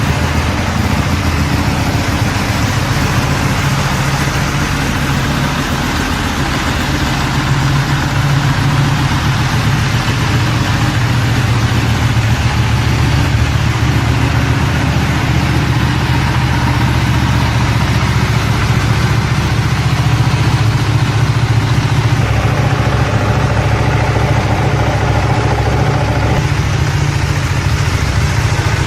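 A motorcycle engine running steadily at a low, even speed, close to idle, with no sharp revs.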